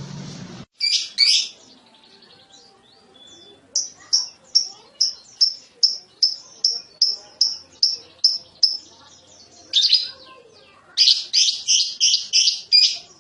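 Lovebird calling in shrill repeated chirps: two loud chirps, then a long run of sharp chirps at about four a second, a short cluster near ten seconds in, and another fast run near the end, the chattering 'ngekek' song. A steady noise cuts off abruptly just before the first chirps.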